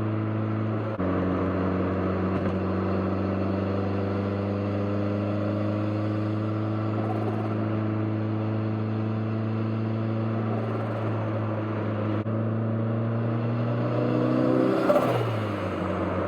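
Turbocharged four-cylinder engine of a 1991 Toyota MR2 Turbo, heard driving under steady light throttle with its note slowly rising. Near the end there is a brief rush of air as the throttle closes, and the engine note then drops.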